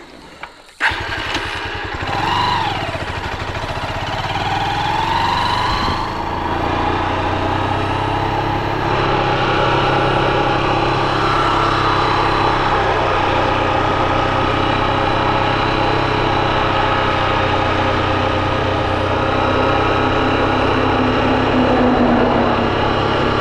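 Honda XR150's single-cylinder four-stroke engine catching about a second in, revving up twice, then running steadily under load as the motorbike is ridden uphill on a flat tyre.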